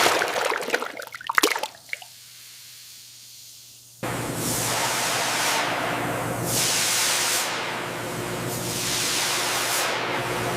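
Hissing water spray with clicks that dies away after about two seconds. About four seconds in, a louder, steady spray hiss with a low hum starts suddenly, its tone sweeping downward about once a second.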